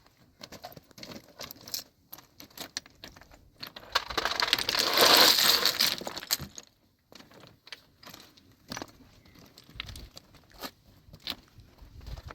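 Scattered small clinks and knocks, with a loud burst of rustling noise lasting about two seconds that starts about four seconds in.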